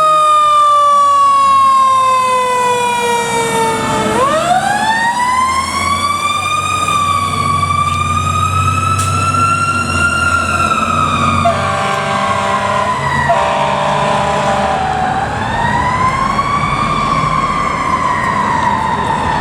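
Fire ladder truck responding with its siren. The siren falls in pitch for about four seconds, then climbs sharply and wails slowly up and down. Two air horn blasts sound about two-thirds of the way through, and a short one near the end, over the low rumble of the diesel engine.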